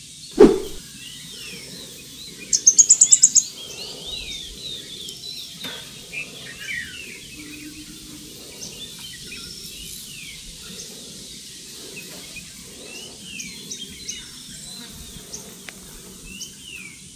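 Wild birds calling: many short, downward-sliding chirps all through, with a quick run of about eight high, sharp notes about three seconds in. A single dull thump sounds about half a second in.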